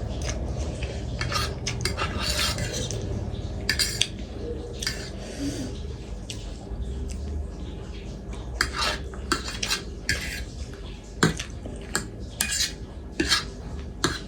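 Cutlery clinking and scraping against a plate or bowl as noodles are eaten: many short, irregular clinks, busier in the second half, over a low steady hum.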